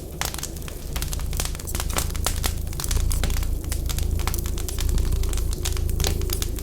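Wood fire crackling with frequent sharp pops and snaps, over a low rumble that swells and dips and a faint steady whistle of wind.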